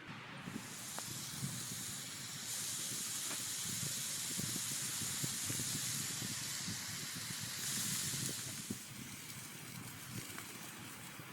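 Steady hiss over a campfire, with small scattered crackles; the hiss drops away about nine seconds in.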